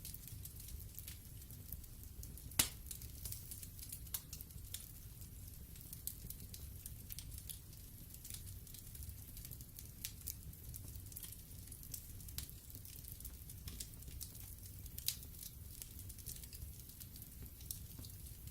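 Log fire in a fireplace crackling: frequent sharp pops and snaps over a steady low rumble of burning, with one loud pop about two and a half seconds in.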